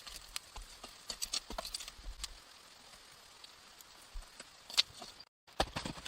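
Irregular sharp knocks and clicks, a few a second, over a faint hiss; the sound drops out completely for a moment near the end, and the knocks then come louder and closer together.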